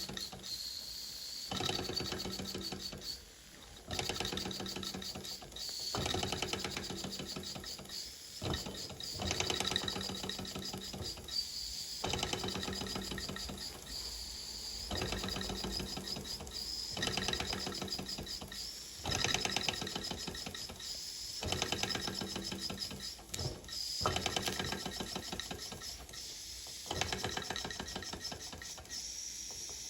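Mamod TE1A live-steam model traction engine running under steam, its small cylinder exhausting in a rapid, even ticking chuff with a steady hiss. The running comes in stretches of a couple of seconds, each broken off suddenly and picked up again.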